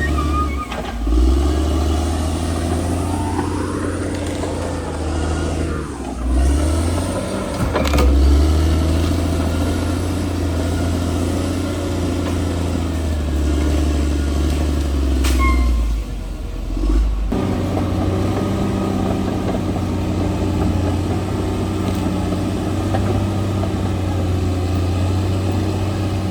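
Crawler bulldozer's diesel engine running under load. Its pitch rises and falls in the first few seconds, then it runs more steadily through the latter half.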